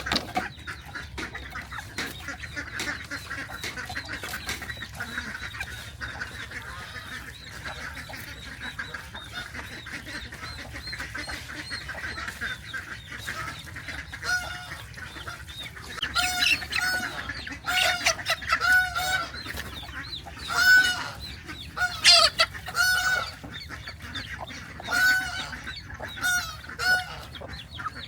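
Farmyard poultry calling: repeated short honking calls start about halfway through and grow louder, over a steady background hiss.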